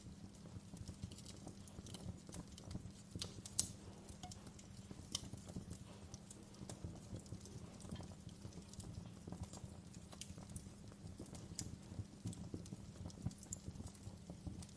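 Wood fire crackling in a fireplace: irregular sharp pops and snaps over a low steady rumble of the flames, with one louder pop about three and a half seconds in.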